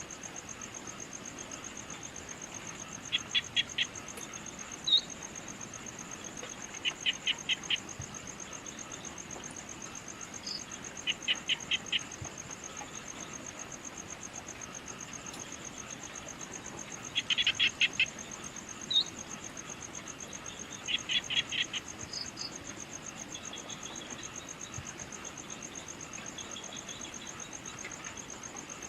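Evening nature ambience: insects trilling steadily at a high pitch, with a bird calling every few seconds in short bursts of four to six quick notes, and a few single high chirps in between.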